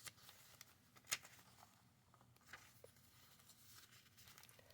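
Faint rustle and light taps of paper pages being handled and turned in a handmade junk journal, with one sharper tick about a second in.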